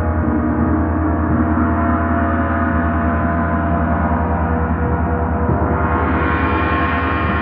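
A gong sounding continuously in a dense, steady wash of many overlapping ringing tones over a low, quickly pulsing hum. Its brighter upper shimmer swells about six seconds in.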